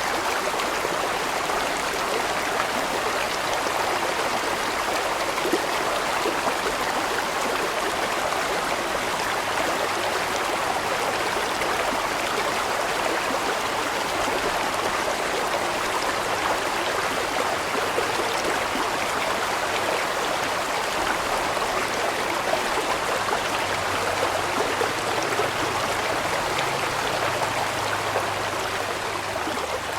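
Water of a large stream flowing steadily: an even, unbroken rush of water.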